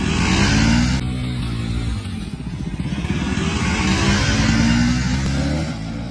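KTM RC 200 and Bajaj Dominar 400 single-cylinder motorcycles accelerating hard off the start of a race. The engines rev up, drop in pitch on a gear change about two seconds in, rev up again, then fade near the end.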